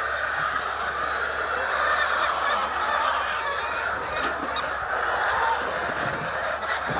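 A flock of laying hens clucking and squawking together in a steady, continuous din. A couple of short knocks sound about four and six seconds in.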